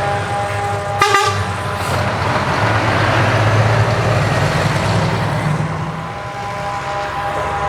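Truck horns sounding a steady chord of several tones, broken by a sharp crack about a second in, then a heavy truck engine running, swelling and easing while the horn fades.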